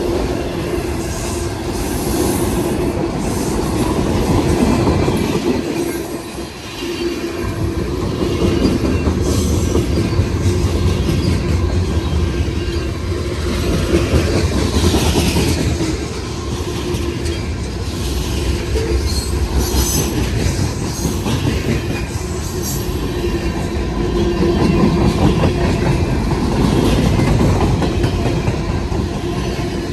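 Freight train cars rolling past, their steel wheels clattering over the rails with a steady rumble and brief high flange squeals now and then.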